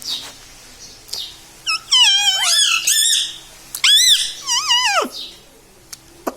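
Pet parrot calling: a few short chirps, then two long, high-pitched wavering calls, the second ending in a falling slide.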